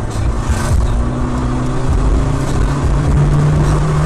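A car engine running steadily under heavy road noise, as from a moving car.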